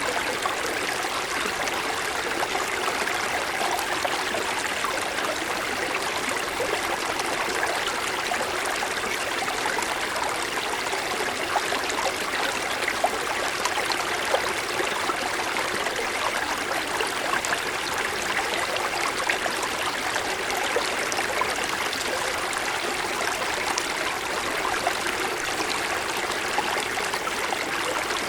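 Small mountain stream running over snow-covered stones: a steady rush of flowing water with light splashes and trickles.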